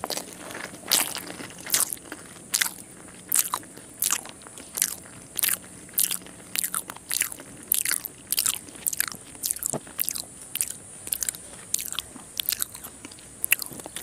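Close-up chewing of raw red onion: a steady run of crisp crunches, about one to two a second.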